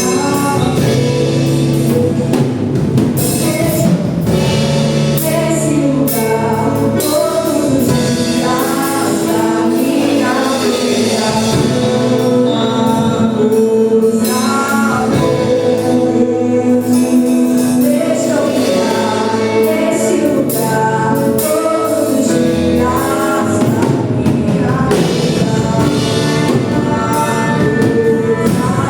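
Gospel worship song: several voices singing together over a steady band accompaniment.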